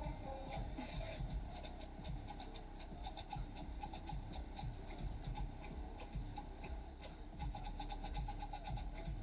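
Low bass from a competition car audio system, heard as a steady low rumble overlaid with dense scratchy crackling.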